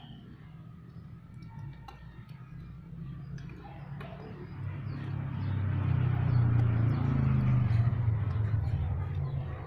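A motor vehicle's engine comes closer, growing louder from about halfway through and staying loud near the end.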